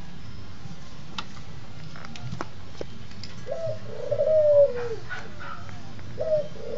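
A bird calling twice, each call a low wavering note about a second and a half long that drops in pitch at its end.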